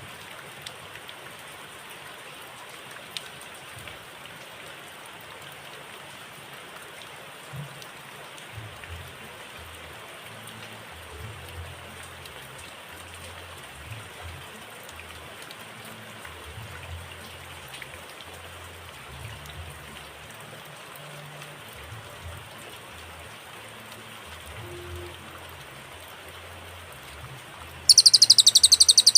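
Steady hiss like light rain. About a second before the end, a loud, rapid, high-pitched song of a cililin songbird starts abruptly.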